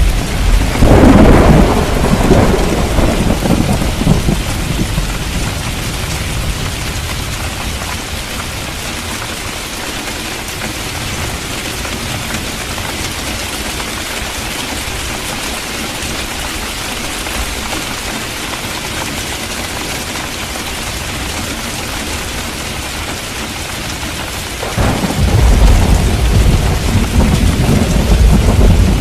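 Heavy rain falling steadily in a thunderstorm. A deep thunder rumble at the start dies away over about four seconds, and a second rumble breaks in suddenly near the end and keeps going.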